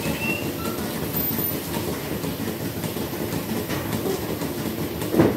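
Milking-shed machinery running with a steady mechanical rumble, with a single sharp knock near the end.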